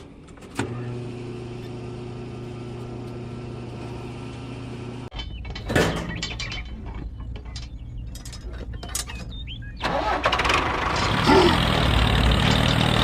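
A motor starts up about half a second in and runs with a steady hum. About five seconds in it cuts to scattered knocks and clatter. From about ten seconds in a louder, rougher engine-like running sound takes over.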